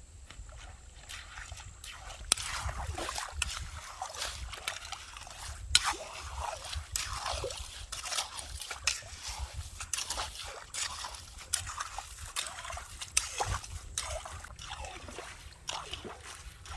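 Shallow water sloshing and splashing, with irregular crunching scrapes and clicks as wet sand and pebbles are dug, busier from about two seconds in.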